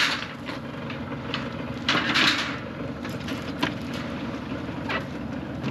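Steady low mechanical hum, with a few scattered clanks and knocks and a short rushing noise about two seconds in.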